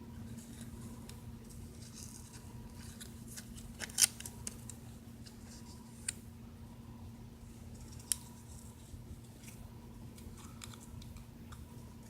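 Small handling sounds of nail silk wraps being sorted and tried against a fingernail: faint crinkling and light ticks, with a sharper click about four seconds in and two smaller ones later, over a steady low hum.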